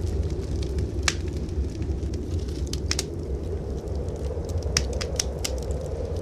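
Wood fire crackling in a fireplace: scattered sharp pops and snaps, a small cluster near the middle and several in quick succession about five seconds in, over a steady low rumble.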